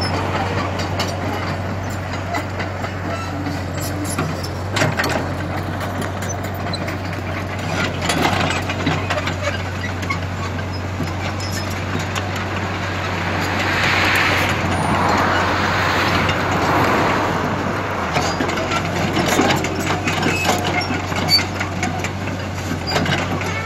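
Komatsu PC75 hydraulic excavator's diesel engine running steadily as the machine works, with scattered clanks and knocks. About fourteen seconds in a hissing rush swells for a few seconds.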